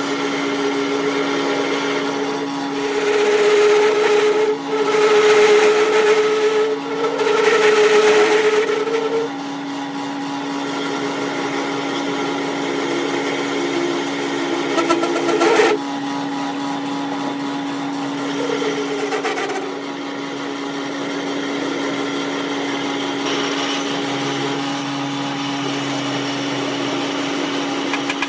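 Workshop machinery running with a steady hum, with louder, harsher stretches about three to nine seconds in.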